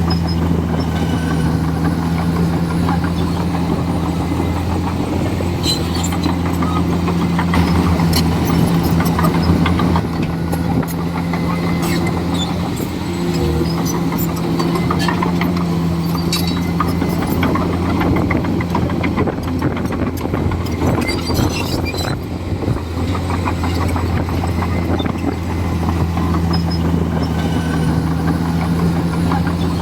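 Komatsu D41E bulldozer's diesel engine running steadily under work, with scattered sharp cracks and clanks over the drone.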